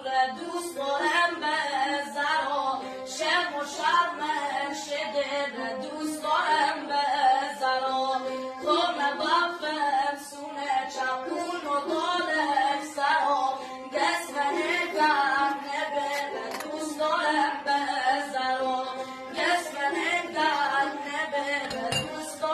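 Vocal music: a man's voice singing a sustained melody.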